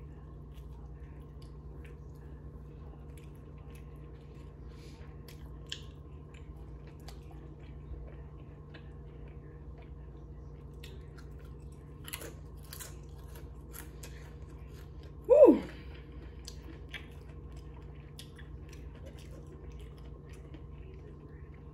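Close-miked chewing and mouth sounds of a person eating a sandwich: soft scattered clicks and smacks over a steady low hum. About fifteen seconds in there is a short loud vocal sound that drops in pitch.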